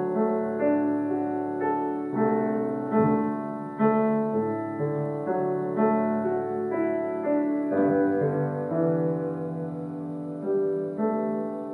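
Background piano music, a gentle melody of held chords and single notes.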